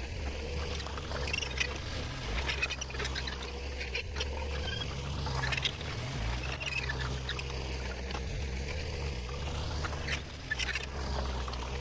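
Old Jeep J20 truck's engine running low and steady while it drives over rough ground, with frequent rattles, clicks and creaks from the body.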